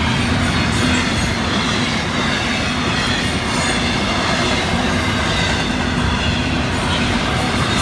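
Florida East Coast Railway freight train of double-stack intermodal well cars rolling steadily past, a continuous loud rumble of steel wheels on rail with occasional brief clicks at the rail joints.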